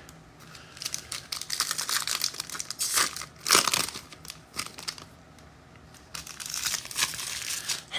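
Plastic or foil wrapping of trading card packs crinkling and rustling while cards are handled: a string of quick, light crackles in two spells, with a lull in the middle.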